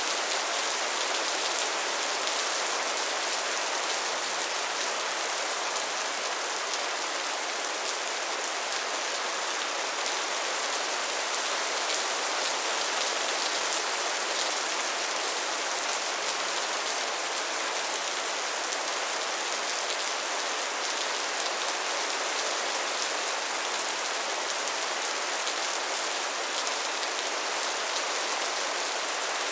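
Steady soft rain falling, a dense even patter of raindrops without let-up.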